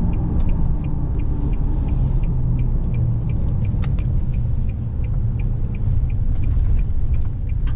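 Steady low engine and road rumble of a pickup-based plow truck, heard from inside the cab, with a small tick repeating evenly about two to three times a second, like a turn signal clicking.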